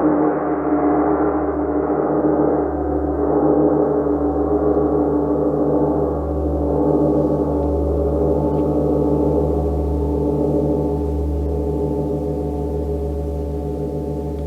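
A gong ringing on from a strike, its dense overtones sustaining and slowly dying away, the highest ones fading first, with a steady low pulsing beat underneath.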